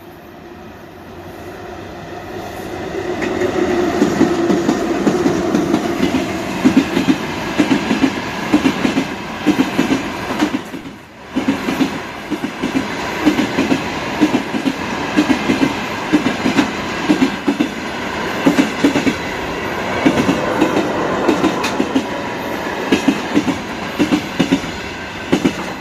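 VL11 electric locomotive and its service train passing, the rumble building over the first few seconds and then wheels clacking rhythmically over the rail joints, with a brief dip about eleven seconds in.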